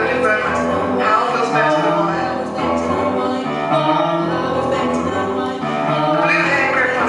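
Group of voices singing sustained harmonies without clear words, over a steady line of low notes.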